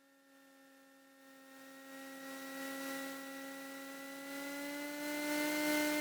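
Cessna 337 Skymaster's engines droning steadily on final approach, heard through the cockpit intercom as a steady pitched hum. It fades up from near silence and grows louder, with a slight rise in pitch about five seconds in.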